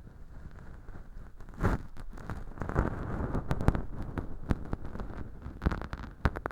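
Feather earpick (bonten) brushing and rustling inside an ear model packed with dry fake earwax, a steady scratchy crinkle with many small crackles.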